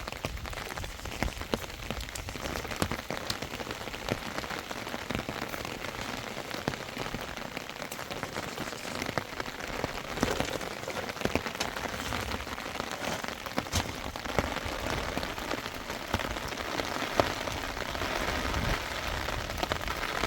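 Steady rain falling, with many separate drops ticking sharply on a hard surface; it grows a little heavier near the end.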